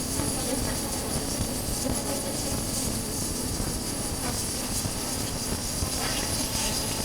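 Wind rushing steadily over a chest-mounted camera's microphone while riding a Honda CB400X, its parallel-twin engine running underneath.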